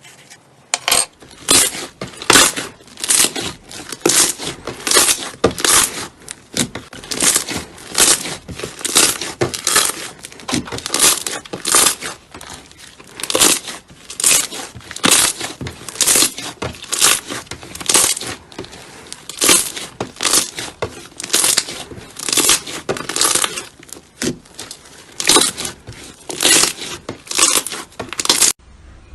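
Slime being worked by hand, a rapid series of squishing sounds at about two a second with only brief pauses.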